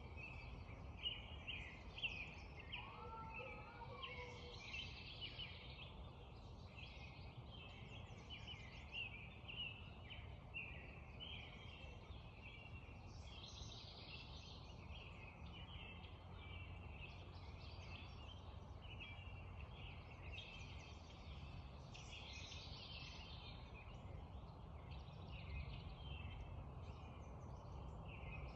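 A dawn chorus: many birds calling over one another without a break, with one lower, curving call about three seconds in, over a low, steady rumble.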